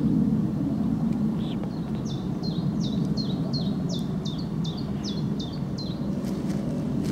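A songbird singing a quick run of about a dozen repeated high notes, each falling in pitch, roughly three a second, over a steady low rumble.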